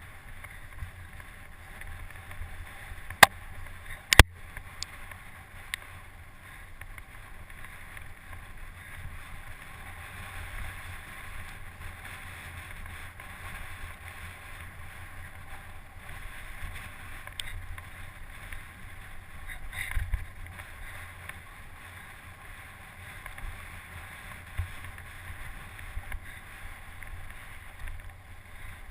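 Steady wind rushing over the microphone with a low rumble, broken by a few sharp clicks about three and four seconds in.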